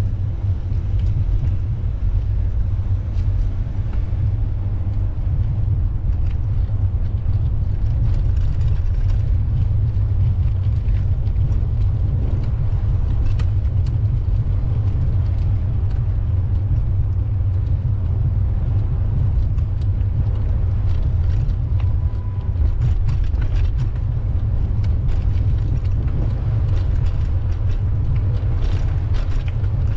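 Steady low rumble of wind buffeting the microphone while riding, with a few faint clicks.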